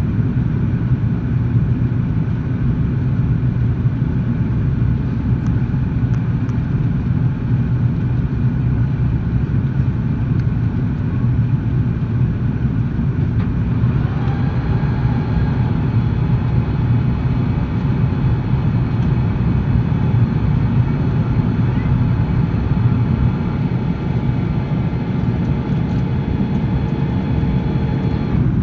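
Airbus A330 airliner's steady low jet rumble. A set of steady whining tones joins about halfway through and cuts off just before the end.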